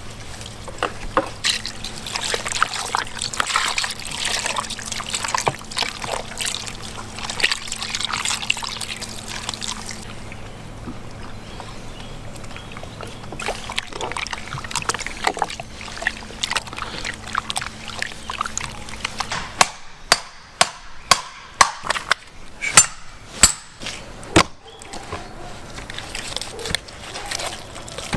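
Milk pouring and trickling over chopped python meat to soak it. Later comes a run of sharp, separate knocks.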